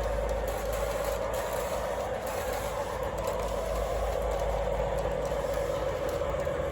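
O gauge model train, an RS locomotive pulling ten cars, running on O27 track around a reversing loop. Its wheels give a steady rumble on the rails, with a constant motor hum.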